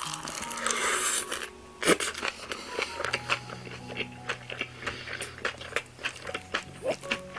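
Close-miked eating of a mouthful of yeolmu (young-radish kimchi) bibimbap: many quick, crisp crunches and wet chewing sounds, with one sharp click, the loudest sound, just under two seconds in.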